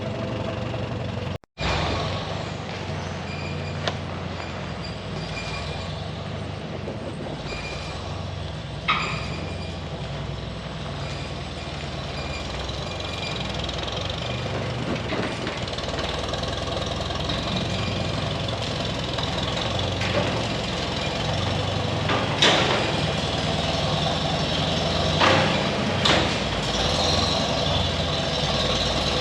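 A farm machine's engine running steadily, with a few sharp metal clanks and rattles over it. The sound drops out completely for a moment about a second and a half in.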